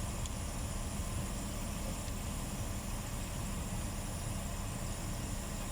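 Air conditioning unit running: a steady low hum with an even hiss over it.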